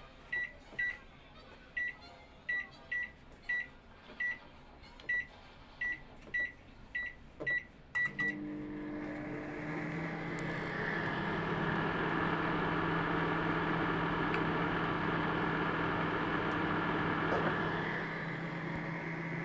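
Microwave oven keypad beeping with each button press, about fifteen short high beeps in the first eight seconds. Then a click as the oven starts, and it runs with a steady hum and whirr.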